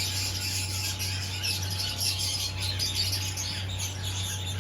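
Many caged birds chirping and squawking at once, a dense overlapping chatter, over a steady low hum.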